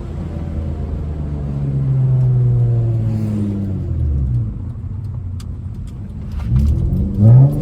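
Straight-piped Honda Accord V6 exhaust while driving, heard from inside the car. The engine note holds and then slowly falls in pitch as revs come down, drops away around four seconds in, then climbs sharply as it is revved near the end, with a loud burst at the top.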